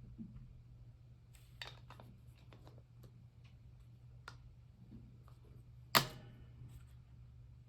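Small clicks and taps of craft tools and paper being handled on a tabletop, with one sharp, loud knock about six seconds in, over a faint steady hum.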